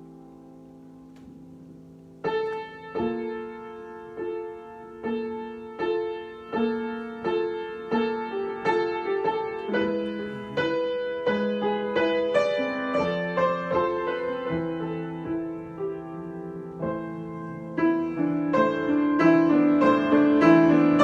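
Solo piano improvisation: a held chord dies away, then about two seconds in a new phrase starts with single struck notes and chords, one or two a second, building louder and fuller near the end.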